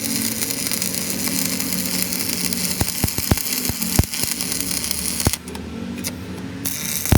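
Steady machine hum, like an engine running, with a broad noisy background and sharp knocks about once a second, typical of tools and metal parts in a heavy-equipment repair shop.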